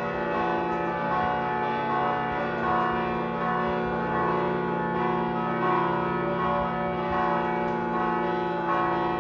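Layered bell tones ringing steadily, many pitches sounding together and swelling in a slow repeating pattern.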